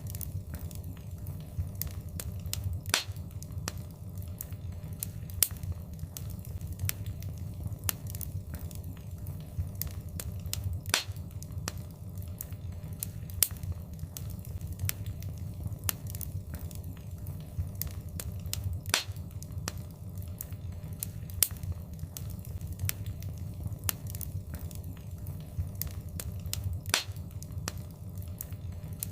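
Fireplace fire crackling: a steady low rumble of the flames under frequent sharp pops and snaps. The loudest pops recur about every eight seconds.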